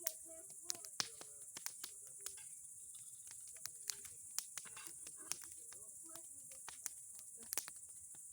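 Bonfire of old boards and pine cones crackling, with irregular sharp pops spread through, over a steady high chirring of insects.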